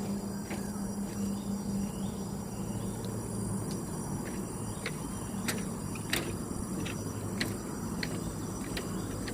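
Footsteps of someone walking on a trail, sharp regular footfalls about one and a half a second through the second half, over a steady high insect drone and a low hum.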